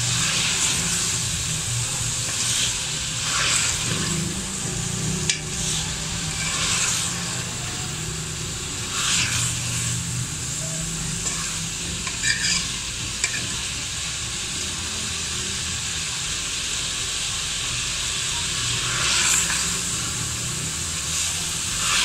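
Potato cubes and green beans frying in spiced masala with a steady sizzle, while a steel spoon stirs them and scrapes the aluminium pot in short strokes every few seconds.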